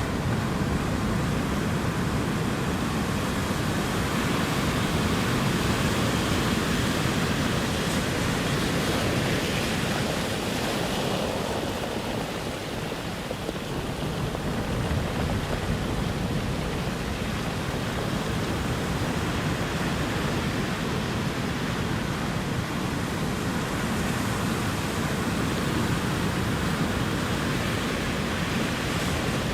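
Ocean surf washing continuously as a steady rushing hiss, easing slightly about twelve seconds in before building back.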